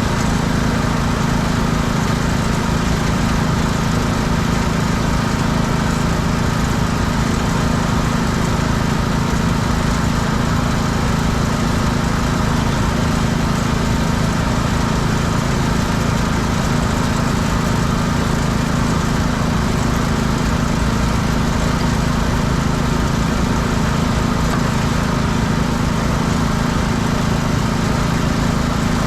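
Small petrol engine of a pressure washer running steadily at constant speed.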